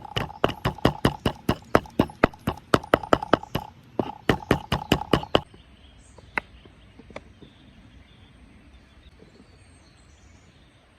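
Rapid, even knocking, about four knocks a second, stopping about five seconds in. Two single knocks follow, then a faint outdoor background.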